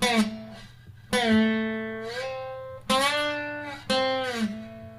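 Guitar played with a slide: four plucked notes that ring and fade, with the pitch gliding up between notes about two seconds in and gliding down near the end.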